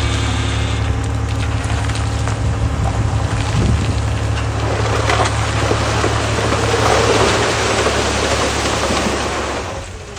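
Heavy vehicle engine running steadily with a deep rumble and broad mechanical noise, fading out near the end.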